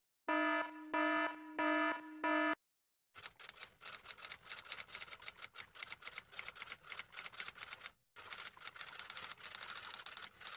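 A sound-effect clip of an electronic beeper sounding four short pitched beeps in quick succession. It is followed by rapid, uneven typing clicks that pause briefly near the end.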